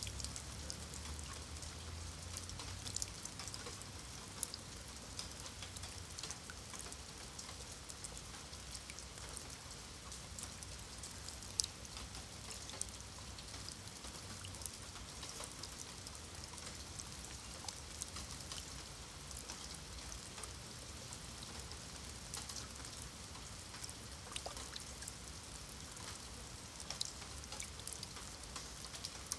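Rain falling on wet stone paving and into a shallow puddle: a steady patter with many scattered, sharper drop splashes. A faint low rumble sits underneath for roughly the first ten seconds.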